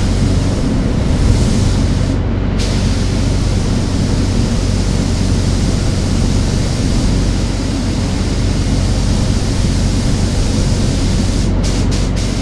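Paint spray gun hissing steadily with air as water-based base coat goes onto an engine block, over the steady hum of the air supply. The spray stops briefly about two seconds in, and near the end the trigger is tapped off and on several times in quick succession.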